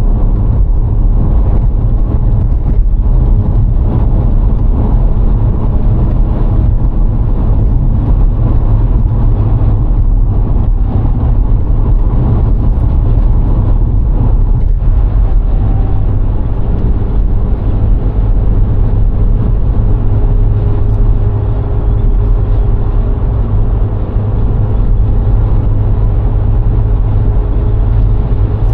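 VW Golf IV 1.6 driving along at a steady pace: a loud, steady low rumble of engine and road noise.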